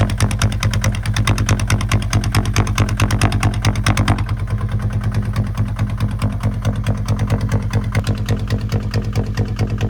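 Single-cylinder diesel engine of a Kubota ZT155 two-wheel tractor running with a steady, rapid firing beat; about four seconds in its sharper upper clatter drops away while the low thud carries on.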